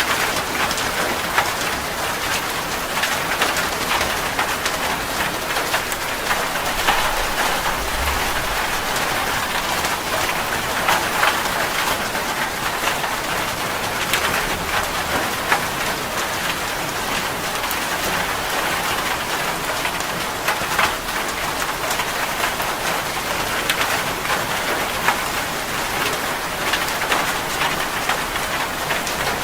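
Heavy rain drumming steadily on a metal roof, a dense hiss full of sharp individual drop impacts, with a short low rumble about eight seconds in.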